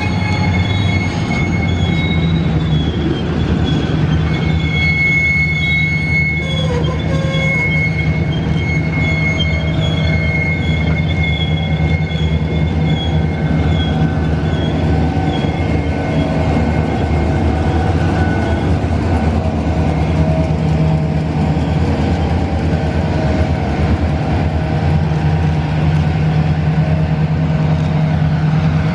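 Slow freight train passing close: EMD diesel locomotives running with a steady low rumble as tank cars roll by, with thin, wavering high-pitched squeals from steel wheel flanges on the rails, strongest in the first half.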